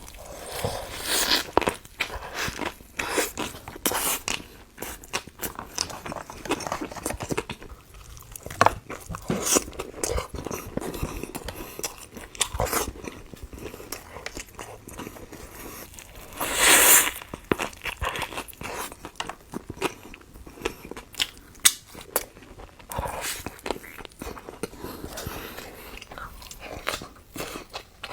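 Close-miked eating: crunchy bites and chewing, irregular and crackly, with one louder, longer crunch about seventeen seconds in.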